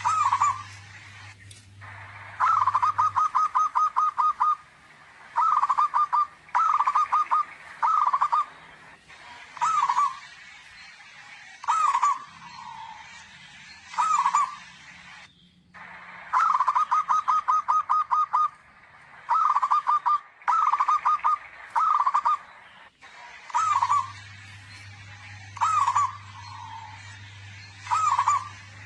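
Zebra dove calling loudly: repeated phrases of quick staccato coo notes, some runs rapid and rattling, others a few separate rolling coos, with a phrase every second or two. A steady low hum sounds underneath in the first few seconds and again near the end.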